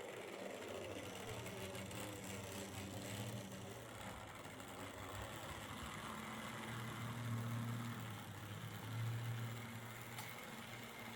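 Hornby Class 35 Hymek OO gauge model locomotive running on the track, its small electric motor and gears humming and the hum swelling louder and softer as it goes. The locomotive is running again after repair.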